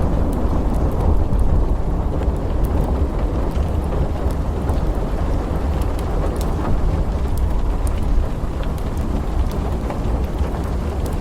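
Steady rain with a continuous low rumble of thunder and no sharp clap, and scattered faint crackles over it.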